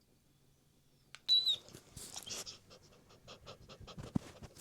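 A dog panting with quick, even breaths, after a short high squeak about a second in.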